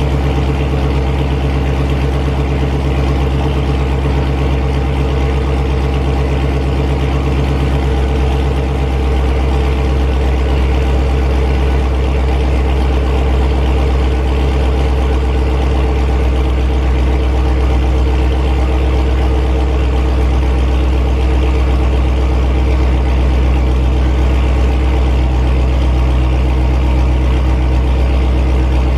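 Dodge Charger Scat Pack's 6.4-litre HEMI V8 idling steadily through a catless exhaust with the mid muffler deleted, a short while after a cold start, with a slight step up in loudness about nine seconds in.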